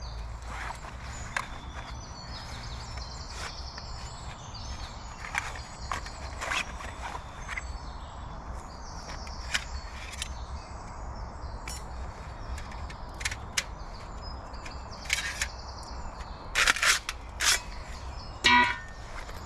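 Outdoor kit being handled and unpacked from a rucksack: scattered clicks, knocks and rustles, with a cluster of louder knocks and a short rasp near the end, over a low steady rumble.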